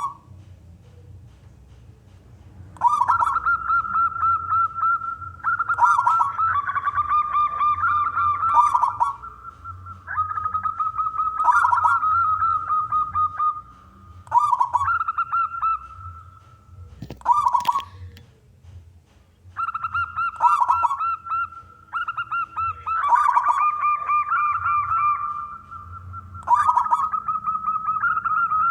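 Male zebra dove (perkutut) singing: a run of rapid, pulsing coo phrases, each one to three seconds long, with short pauses between them.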